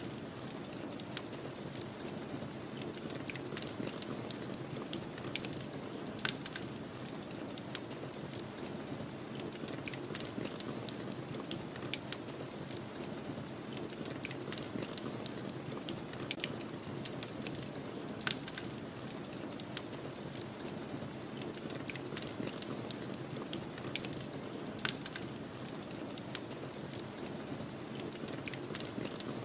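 Wood fire crackling, with frequent sharp, irregular pops and snaps over a steady low rushing background.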